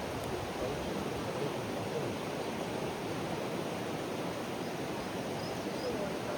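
Mountain river rushing, a steady, even rush of water.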